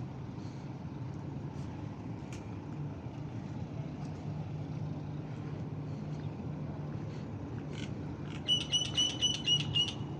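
Steady low outdoor hum, with a quick run of six high, evenly spaced chirps near the end.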